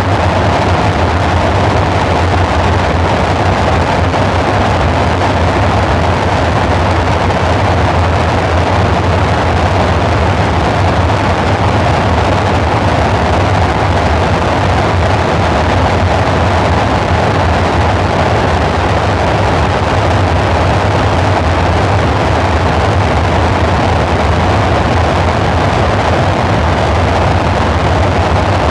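Dark ambient synthesizer drone: a steady, dense noisy rumble with a deep low hum beneath a band of midrange hiss, unchanging.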